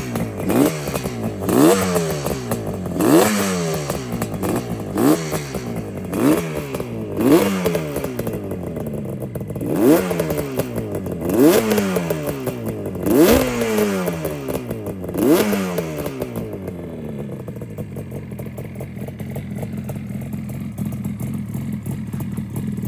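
1976 Yamaha RD400's two-stroke parallel twin revved about ten times: each blip rises sharply and falls back. The throttle is being blipped to clear the engine out just after the choke is switched off on a cold start. For the last several seconds it settles to a steady idle.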